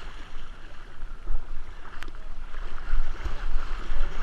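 Kayaks being paddled: water splashing and sloshing against the boats over a steady low rumble on the microphone, with one sharp click about two seconds in.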